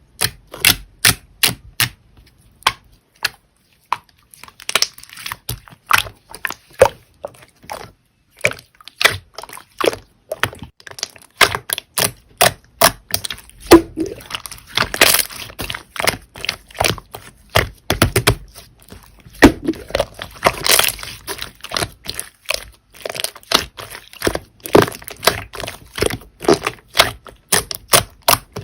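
Hands squeezing and poking slime, making a stream of sharp clicks and pops from trapped air. The clicks are spaced out at first and then come thick and irregular.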